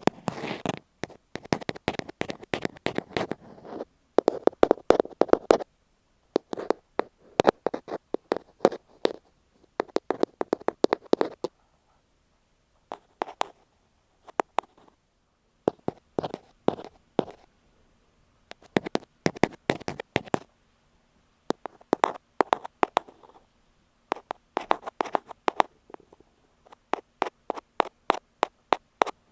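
Ear pick tapping directly on an earphone microphone: rapid, close clicky taps in bursts of a few seconds, broken by short pauses.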